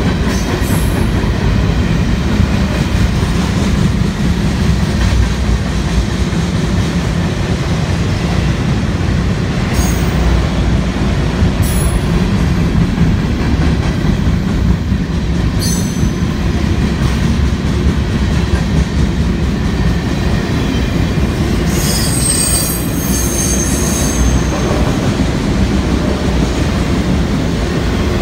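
Freight train cars (covered hoppers and autoracks) rolling past: a steady heavy rumble of steel wheels on rail. Brief high wheel squeals break in about ten, twelve and sixteen seconds in, with a longer squeal a little over twenty seconds in.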